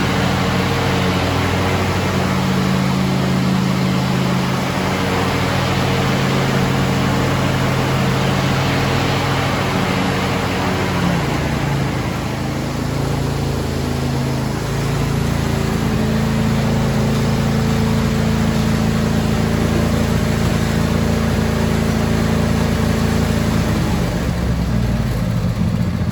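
The 22 hp two-cylinder Briggs & Stratton engine of a John Deere D130 lawn tractor running steadily. About twelve seconds in, its note dips briefly and settles at a slightly different pitch.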